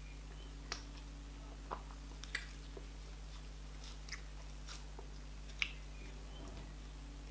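Close-miked eating of garri fufu with okra soup and meat by hand: chewing, with about half a dozen sharp, irregularly spaced mouth clicks. A steady low electrical hum runs underneath.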